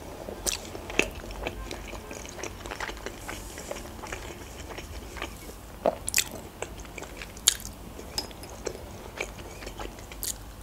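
A person chewing food close to the microphone: wet mouth clicks and smacks scattered through, a few of them sharper and louder.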